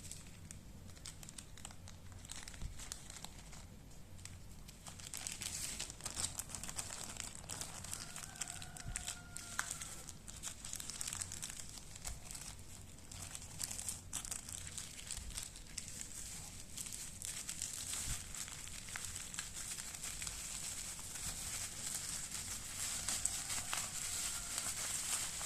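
Plastic packaging crinkling and rustling as it is handled and wrapped, a dense irregular crackle that gets busier about five seconds in.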